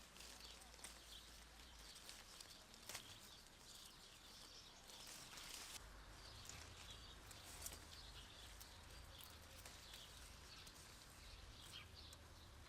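Faint outdoor ambience with scattered small bird chirps and occasional soft clicks over a low rumble.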